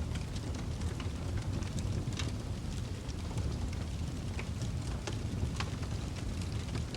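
Fireplace fire burning, a steady low rumble of flames with scattered sharp crackles and pops from the burning wood.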